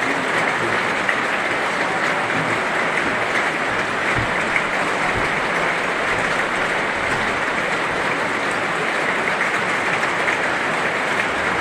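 Heavy rain falling steadily, a dense, even wash of noise without pauses.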